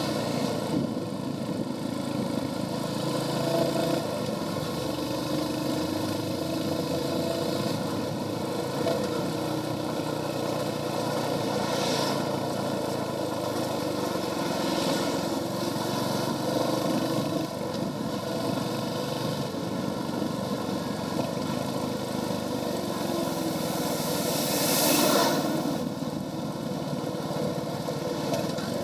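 Royal Enfield Hunter 350's single-cylinder engine running through its stock exhaust while the bike is ridden, with a steady note. Brief whooshes come through at about 12 and 15 seconds, and a louder one at about 25 seconds.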